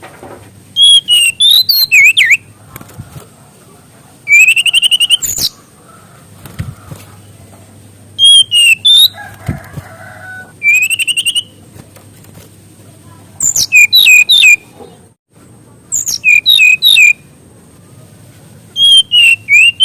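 A small SRDC songbird singing loudly in short phrases of high, quick warbling whistles. There are seven phrases, each under about a second and a half, coming every two to three seconds.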